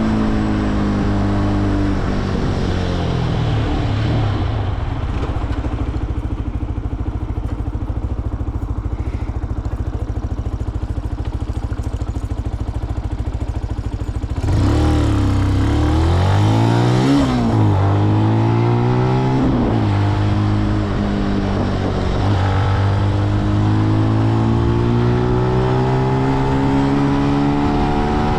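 Benelli BN125 motorcycle's single-cylinder engine slowing down and ticking over for about ten seconds, then pulling away about halfway through, revving up through a couple of gear changes and running on at a steady, slowly rising pitch.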